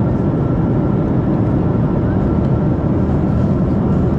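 Steady cabin noise inside a Boeing 737-700 at cruise: a constant low rumble of airflow and engines, with a faint steady whine above it.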